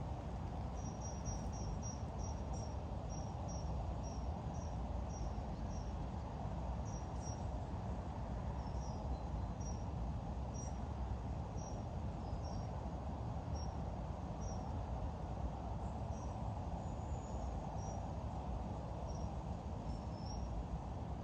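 Outdoor ambience: a steady low rumble with a run of short, high chirps. The chirps come quick and even for the first few seconds, then turn irregular.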